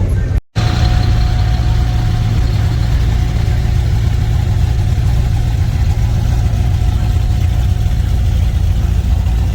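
A car engine running with a steady, loud low exhaust rumble, as at idle or a slow crawl, with a brief drop-out in the sound about half a second in.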